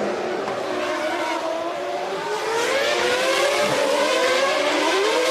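Formula One racing car engines at high revs, the pitch climbing and dropping again and again through the gear changes as the cars accelerate and slow.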